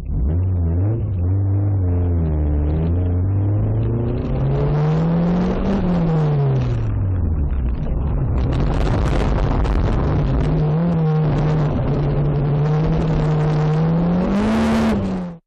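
Car engine accelerating, its pitch climbing for about six seconds, then dropping as it slows, and rising again, with road and tyre noise growing louder. The sound cuts off suddenly at the end.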